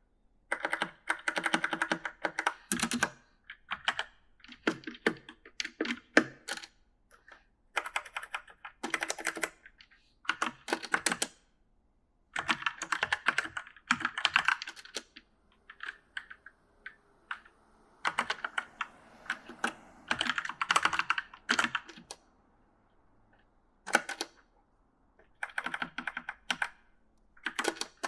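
Typing on an E-Element mechanical gaming keyboard: uneven bursts of quick key clicks broken by short pauses, with only scattered single keystrokes around the middle.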